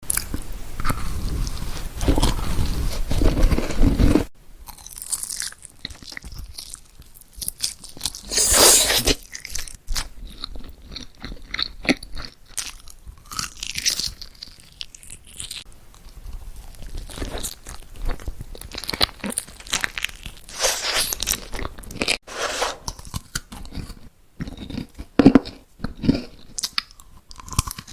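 Close-miked ASMR eating: crunchy bites and chewing of assorted foods, in separate crisp crunches with pauses between them. It opens with about four seconds of loud, low, dense noise that cuts off abruptly.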